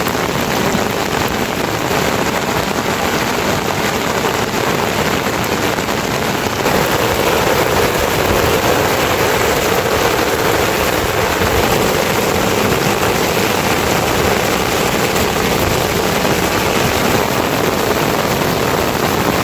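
Steady heavy rain, a loud even hiss with no breaks, its tone shifting slightly about a third of the way through.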